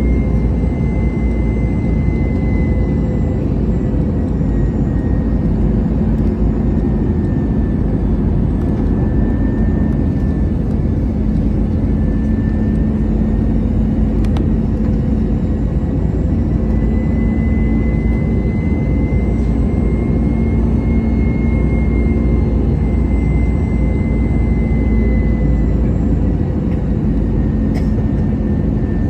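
Cabin noise inside an Airbus A320-214: a steady, loud rumble of the CFM56 engines and airflow, with a constant hum and a faint wavering high whine over it.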